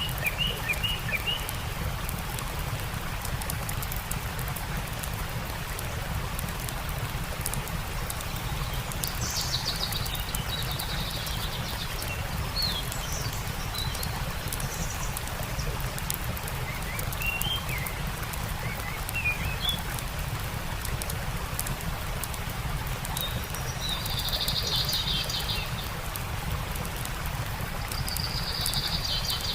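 Wild birds calling at intervals, with short trills, chirps and a few buzzy calls, over the steady rush of a stream and the fine crackling of a campfire.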